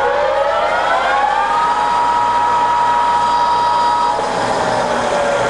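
Scott 6250L centre lathe spindle and headstock gears running at the top speed of 1120 rpm, giving a high whine. The whine rises in pitch over the first second and a half, holds steady, then starts to fall about four seconds in as the spindle winds down.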